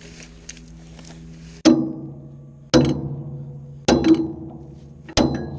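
Four hammer blows on steel, about a second apart, each ringing on after the strike, over a steady low hum.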